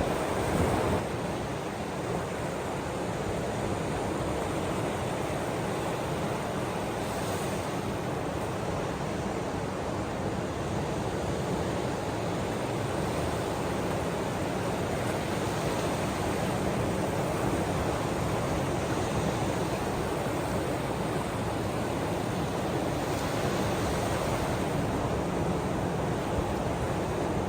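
Ocean surf washing on the shore, a steady rush of waves.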